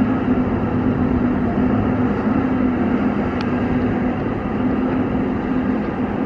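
Diesel engine of a Caterpillar 552 feller buncher running steadily under power, a constant pulsing hum over a rumble, with one faint sharp tick about three and a half seconds in.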